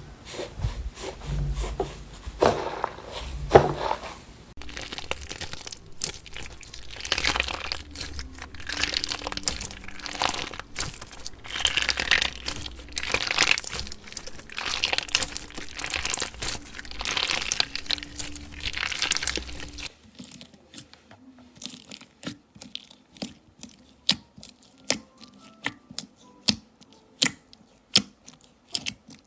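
Slime being pressed and stretched by hand, crackling and crunching in dense bursts. About two-thirds of the way through it changes to a run of separate sharp crunchy clicks, about two a second.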